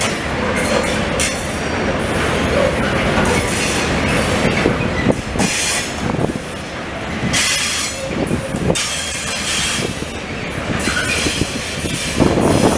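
Freight train of tank wagons rolling past, a steady rumble of wheels on rail with knocks from the rail joints and intermittent high-pitched wheel squeal.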